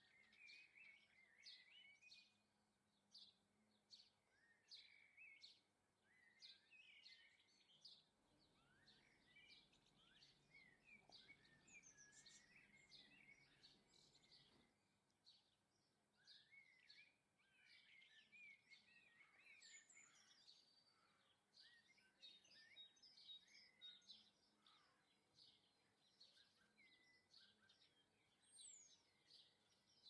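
Faint chirping and twittering of small garden birds: many short calls overlapping, coming and going throughout, with a faint low hum in the background for a few seconds in the middle.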